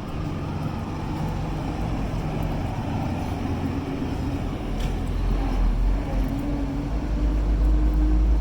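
A motor vehicle's engine running close by on the street with a steady low rumble, growing louder about halfway through.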